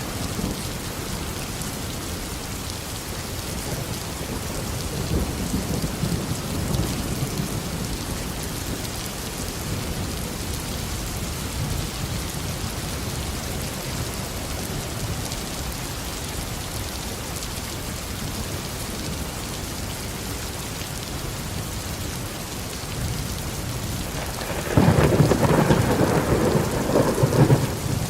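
Steady heavy tropical rain falling on a garden, with low rolling thunder swelling and fading early on, then a louder, crackling clap of thunder near the end that lasts about three seconds.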